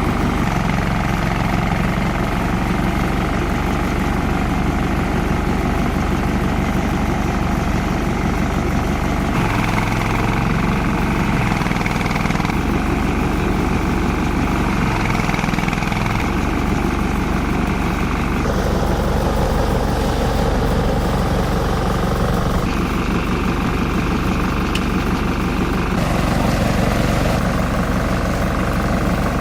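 Multi-purpose chopper-shredder-grinder machine running steadily under power, its sound changing abruptly several times.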